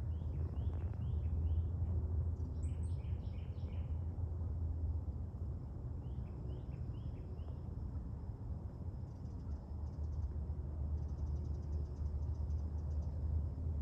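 Outdoor ambience: a steady low rumble, over which a bird gives three runs of short chirps in the first half, followed by faint, fast, insect-like ticking.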